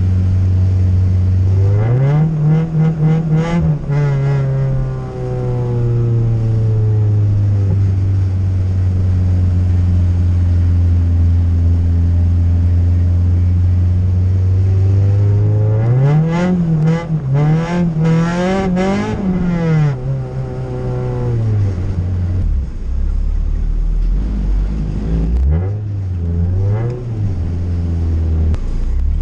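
Car engine heard from inside the cabin while driving: running steadily, revving up briefly near the start, a longer stretch of rising and falling revs past the middle, then dropping to a low idle with two small blips near the end.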